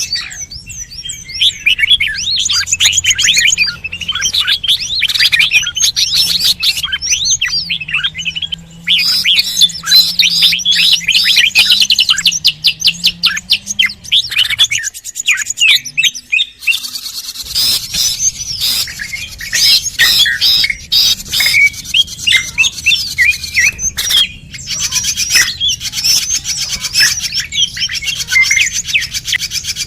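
Bird-lure recording of birds chirping and twittering densely, many quick overlapping calls, broken by short abrupt gaps about halfway through.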